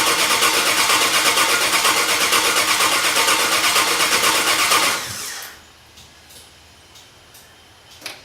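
Vehicle engine cranking on its starter motor with an even, rhythmic chug of about five beats a second, never catching, then cutting off about five seconds in. It cranks without firing because no fuel is reaching it: the fuel pump has a loose wire.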